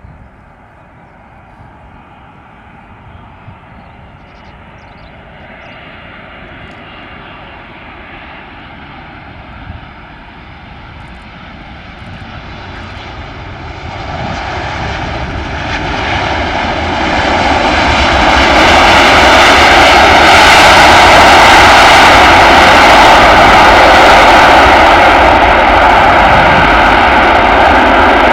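Jet airliner's engines growing steadily louder as it approaches, with a steady whine of several tones over its noise, until it is very loud about two-thirds of the way in and stays loud as it passes close by.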